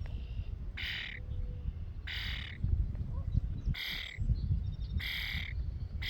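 A bird calling over and over, one harsh call roughly every second and a half, four calls in all. A low rumble runs underneath.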